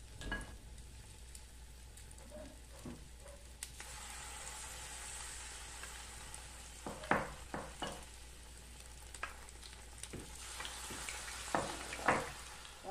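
Battered bertalha (Malabar spinach) leaves deep-frying in hot oil: a steady sizzle that gets louder from about four seconds in, as more battered pieces go into the pan. A few short knocks and clinks come near the end.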